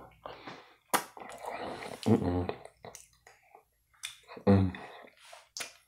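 A man chewing a mouthful of chicken and rice, with a few sharp wet mouth clicks and smacks and two brief low hums of enjoyment.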